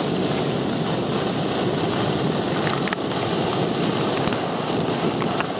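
Portable camp stove burner running with a steady rushing hiss while it heats water for a trail meal, with a couple of faint clicks near the middle.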